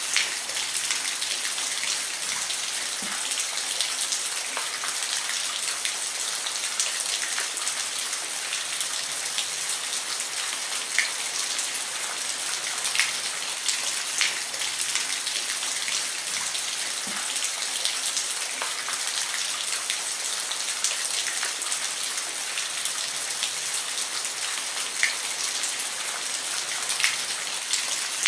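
Steady rain falling on a roof: a constant hiss with scattered louder individual drops ticking through it.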